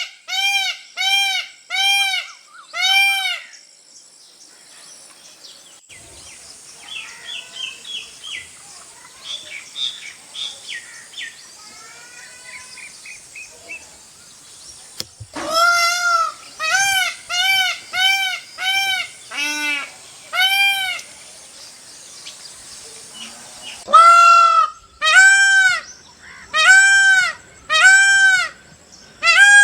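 Peacock calling in bouts of loud, evenly repeated arched calls, each about half a second long. There are four or five at first, a run of about eight from the middle, and louder calls near the end. Softer chirping of small birds fills the gap between bouts.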